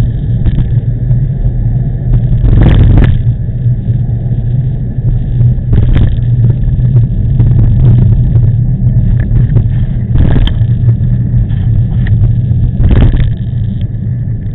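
Heavy low rumble of strong typhoon wind buffeting a camera's microphone while riding a bicycle, with a few short sharp knocks scattered through it.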